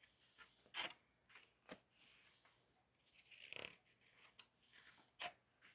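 Near silence: faint rustles and a few soft clicks of picture-book pages being handled, with a soft breath in the middle.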